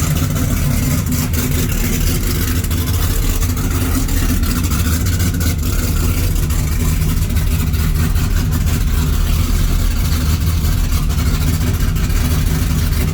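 Supercharged Hemi V8 of a 2018 Dodge Challenger SRT Demon with a Whipple supercharger and a changed exhaust, idling loud and steady during its cold-start warm-up.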